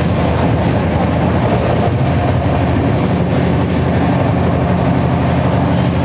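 Express passenger train running, heard from inside the coach: a steady, loud rumble of the moving carriage that does not change.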